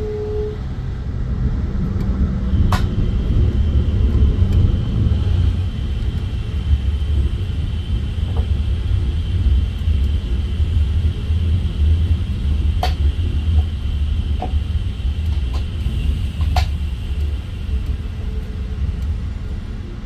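Amtrak passenger train running along the track, heard from inside the car: a steady low rumble with a few sharp clicks and a faint, steady high whine from about three seconds in until near the end.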